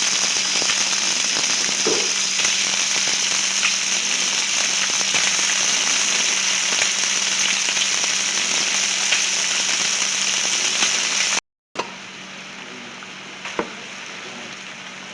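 Food frying in butter in a hot pan: a steady sizzle with scattered small pops. About eleven seconds in it breaks off for a moment and comes back much quieter.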